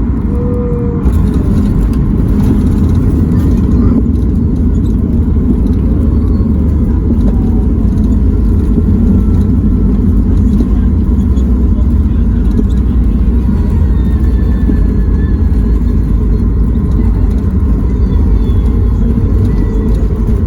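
Loud, steady rumble of engine and airflow noise in the cabin of a Boeing 737 MAX 8 with CFM LEAP-1B engines, heard near the rear of the cabin. About a second in it gets a little louder and hissier.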